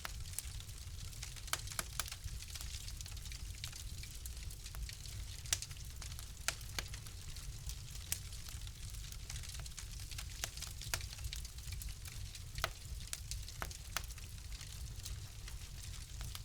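Fire in a fireplace crackling: irregular sharp pops and snaps, a few louder than the rest, over a steady low rumble and soft hiss.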